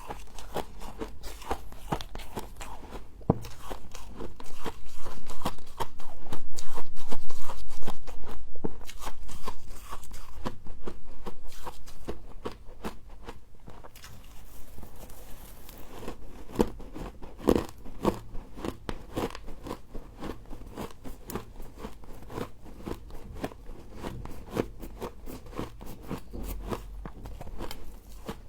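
Humidifier frost being bitten and chewed: dense, rapid crunching throughout, loudest for several seconds in the first half.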